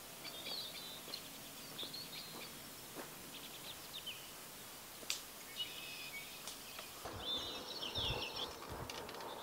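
Small songbirds chirping in short, repeated calls over a faint outdoor hiss, with a few light clicks; the chirping grows busier near the end.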